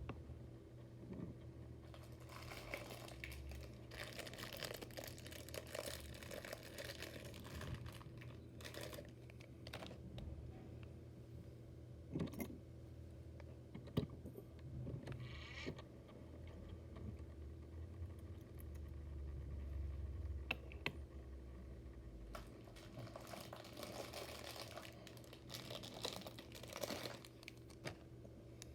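Small diecast motorcycle models and their packaging being handled: scattered light clicks, taps and rustling over a steady low hum.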